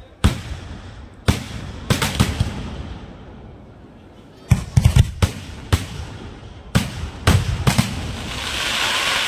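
Aerial fireworks bursting overhead in sharp bangs: single reports in the first two seconds, then rapid clusters around five and seven seconds. A crackling hiss swells near the end.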